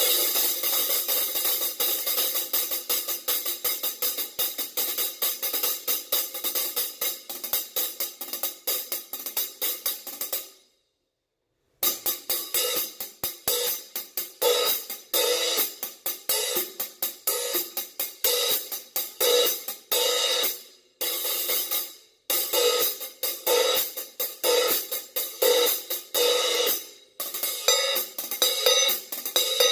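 Paiste 16-inch 2002 Sound Edge prototype hi-hats being played. A steady stream of rapid strokes runs for about ten seconds and then stops dead. After about a second of silence, separate strokes follow in phrases, cut short twice more near the end.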